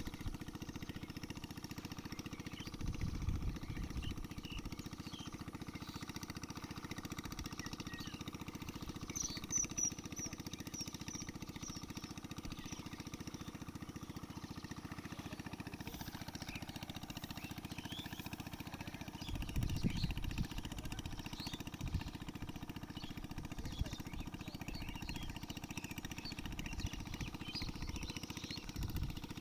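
A small engine running steadily with a low drone that swells briefly twice, while birds chirp now and then.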